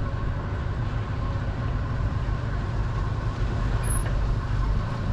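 Steady low engine and road rumble of a vehicle driving, heard from inside the cab.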